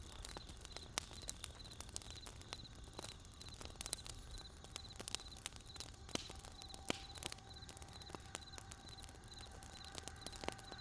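Campfire of burning wood crackling, with sharp irregular snaps and pops. A high chirping repeats about three times a second throughout, and a steady held tone joins about six seconds in.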